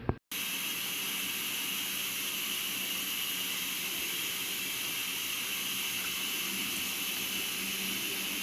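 A steady, even hiss that starts abruptly about a quarter second in and holds unchanged throughout.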